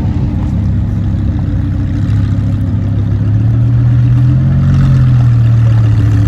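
A car engine running at low revs with a steady low hum; its pitch rises slightly about halfway through, then settles back a little.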